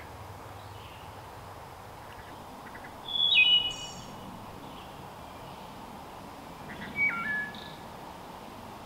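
Wood thrush singing: two short flute-like phrases, one about three seconds in ending in a high trill, and a lower stepped phrase about seven seconds in.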